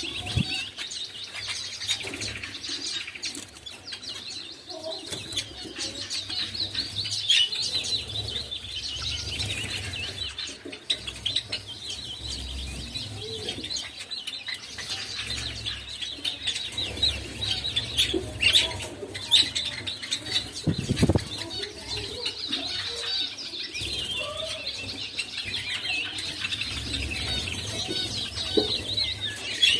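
A mixed flock of caged small birds (finches, Java sparrows and a bulbul) chirping continuously with many overlapping high calls, along with wing flutters and small knocks around the cage. A steady low hum sits underneath.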